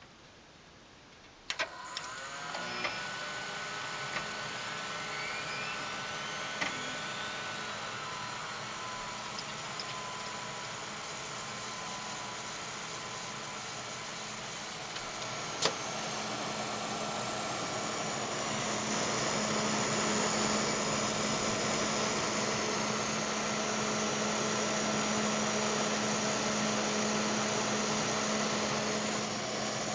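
Desktop PC cooling fans inside the case starting up: a click about a second and a half in, then the fans spin up with rising whines and settle into a steady whir that gets louder about halfway through. One fan makes an abnormal 'shaka-shaka' rattling hiss instead of its normal sound, the sign of a faulty fan.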